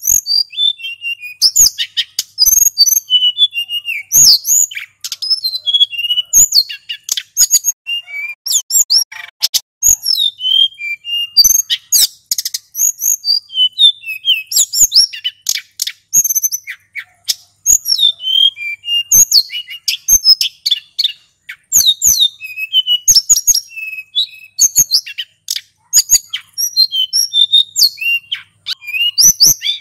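Male hill blue flycatcher (sulingan gunung) singing nonstop, a rapid run of varied high whistles, slurred glides and sharp chips with hardly a pause between phrases.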